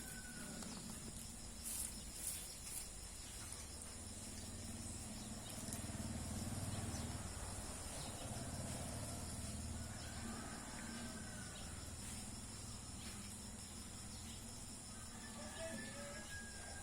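Rural ambience: a steady high buzz of insects such as crickets, with a few short bird chirps later on and a low hum that swells in the middle.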